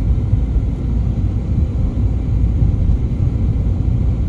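Car driving, heard from inside the cabin: a steady low rumble of engine and tyres on an uncleared snowy road.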